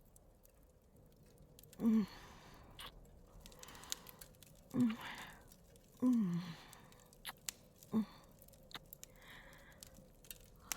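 A woman's close-miked kissing: soft wet lip smacks and clicks, with four short hums that fall in pitch.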